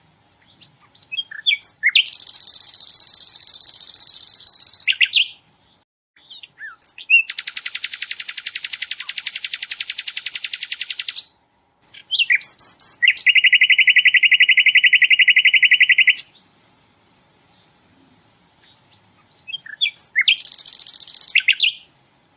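Sikatan londo flycatcher song: four bouts of very fast, dense trilling, the 'tembakan' bursts, each lasting three to four seconds. Each bout starts with a few short chips, and the third bout is lower and buzzier.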